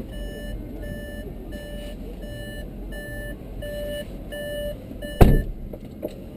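Car's interior warning chime beeping over and over at an even pace, under a low rumble. About five seconds in there is one loud heavy thump, and the beeping stops after it.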